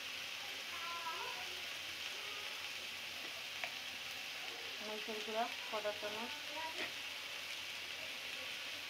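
Sliced onions and thin-cut potatoes frying in hot oil in a karahi, with a steady sizzle. About five seconds in, a brief voice-like sound rises over the sizzle, and a couple of light clicks are heard.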